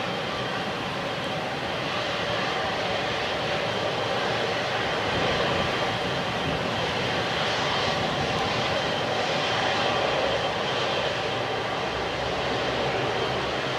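Jet airliner's engines running with a steady noise that grows slightly louder partway through.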